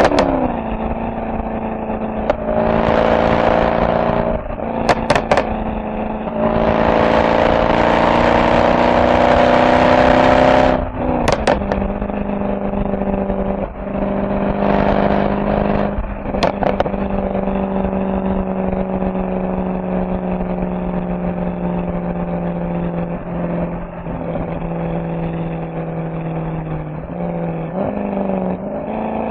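Mercedes-AMG SL63's V8 exhaust: the car pulls hard three times in the first sixteen seconds, engine note climbing, with sharp exhaust cracks as each pull ends, then settles into a steady cruise with the note slowly dropping.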